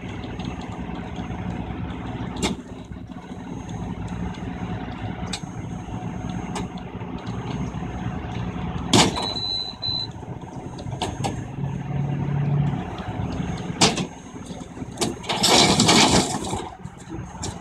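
Heavy diesel truck engine idling steadily during a wreck recovery, with a few sharp metallic knocks and a loud hiss of noise about fifteen seconds in.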